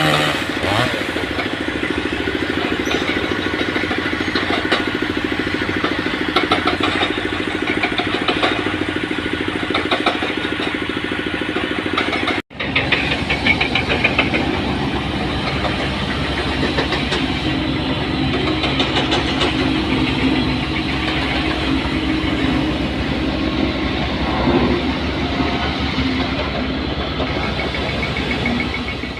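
Engines of heavy construction machinery running steadily, with a brief sudden dropout about twelve seconds in where the recording cuts.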